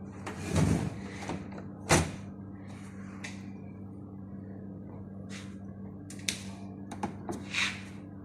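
Handling noises from work on a TV set: scattered knocks, clicks and short scrapes, the sharpest near two seconds in and several more near the end, over a steady low electrical hum.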